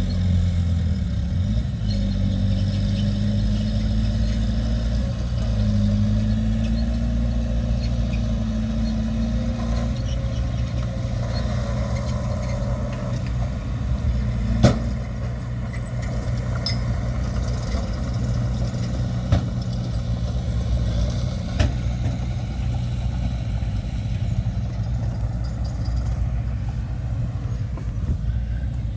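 Heavy diesel earthmoving machinery running steadily, its engine pitch shifting during the first several seconds. A few sharp knocks come about halfway through and later.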